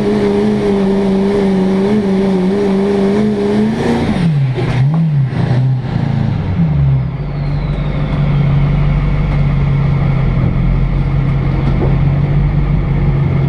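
Diesel pulling truck's engine heard from inside the cab, held at steady high revs, then dropping off about four seconds in. Two quick throttle blips follow, and the engine settles into a steady lower-speed run.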